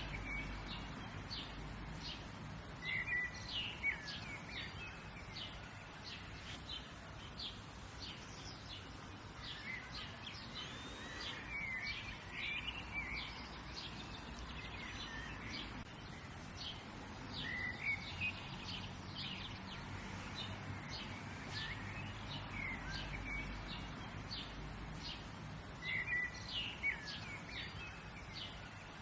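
Several birds chirping and calling in short phrases throughout, over a steady low outdoor background.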